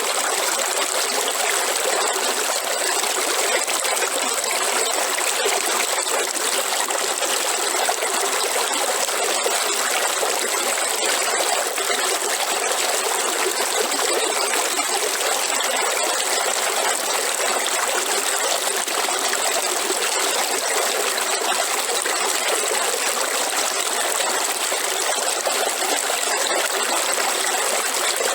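Waterfall: water falling and splashing in a steady, unbroken rushing noise.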